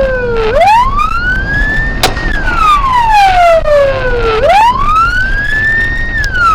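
Police car siren on a slow wail: each cycle rises quickly from low to high pitch, holds briefly, then falls slowly, over a steady low vehicle rumble. A single sharp click cuts through about two seconds in.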